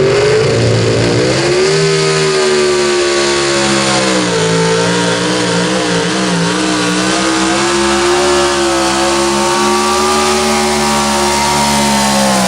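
Super stock 4x4 pulling truck's engine at high revs under load during a pull, the pitch climbing over the first couple of seconds, then holding high with small wavers and a brief dip about four seconds in.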